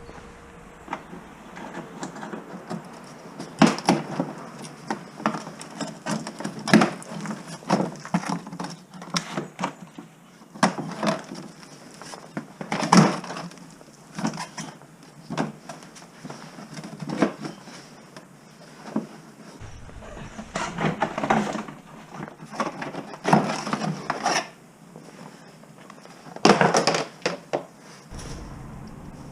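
Work clatter: a long run of sharp knocks and short rattles at uneven spacing, like tools and metal parts being handled and set down.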